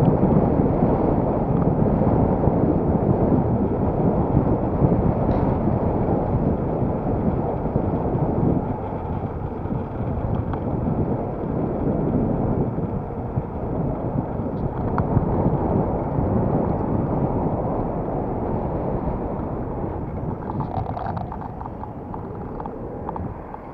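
Wind rushing over the microphone, mixed with road and traffic noise, during an electric-bicycle ride; it is a loud, unsteady rumble that gradually eases over the last several seconds.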